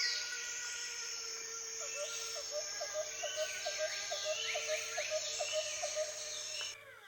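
Ambient nature-like soundscape: a steady drone of held tones under sweeping high glides, with a run of short chirps at about three a second through the middle. It cuts off abruptly near the end.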